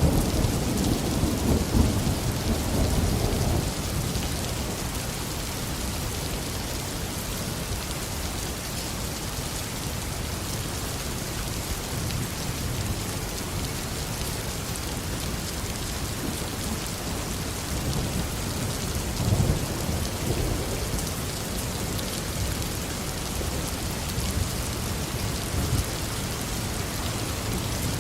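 Heavy tropical rain falling steadily, with thunder rumbling low at the start and fading over the first few seconds, and a shorter, fainter rumble of thunder about two-thirds of the way in.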